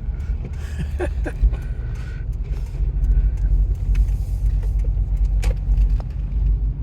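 Motor vehicle on the move, a steady low engine and road rumble, with a single sharp click about five and a half seconds in.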